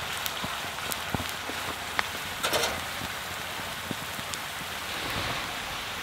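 Tempeh slices frying in oil in a cast-iron skillet, a steady sizzle with scattered sharp crackles and pops, the loudest about two and a half seconds in.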